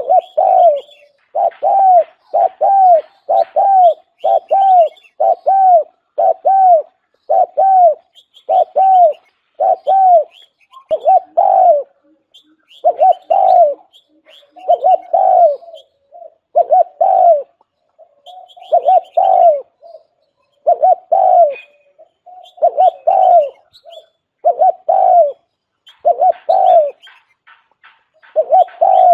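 Spotted dove cooing a decoy call, the kind used to lure wild doves: a long series of short, arched coos, one to two a second, broken by a few brief pauses.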